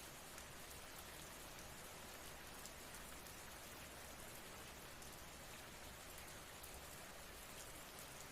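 Soft, steady rain: an even hiss with a faint patter of drops.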